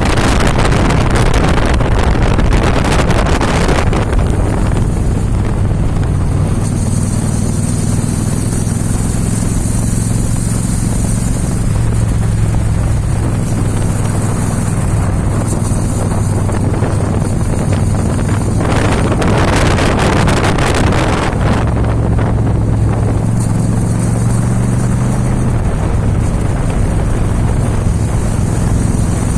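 Motorcycle engine running steadily on the move, with wind buffeting the microphone in strong gusts during the first few seconds and again about two-thirds of the way through.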